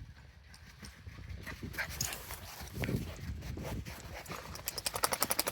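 A dog's paws crunching through snow as it runs, with scattered footfalls and then a quick run of crunches near the end.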